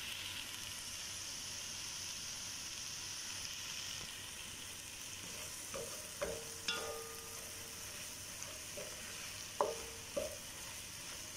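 Chicken pieces with tomato and spices sizzling in a pan as they are stirred with a wooden spatula. The spatula knocks against the pan a few times, around six seconds in and again near ten seconds.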